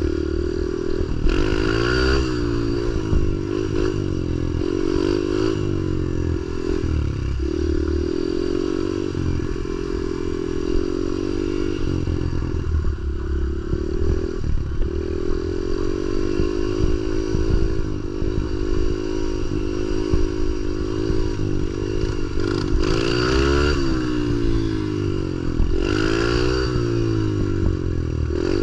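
Pit bike's small single-cylinder engine being ridden with the throttle opened and closed again and again, the revs rising and dropping several times, as the rider tries to lift the front wheel into a wheelie.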